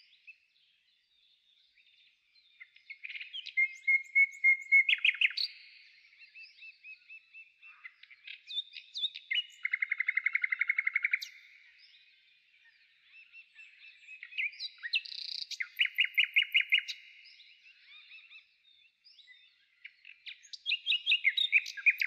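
Songbirds singing: four bouts of high chirps and fast trills, with quiet gaps between them.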